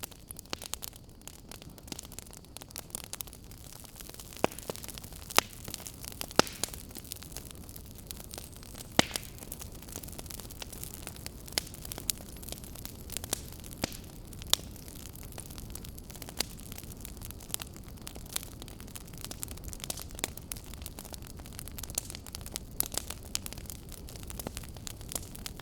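Wood fire crackling in a fireplace: a steady low hiss with frequent irregular pops and snaps, a handful of them sharply louder than the rest.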